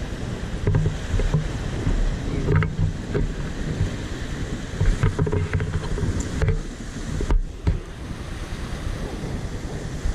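Wind buffeting the microphone in uneven gusts, a rumbling noise that swells and drops irregularly.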